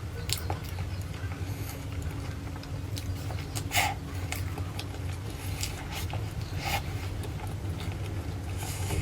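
Eating sounds: a few sharp wet mouth clicks and smacks, the strongest about four seconds in and another near seven seconds, over a steady low hum.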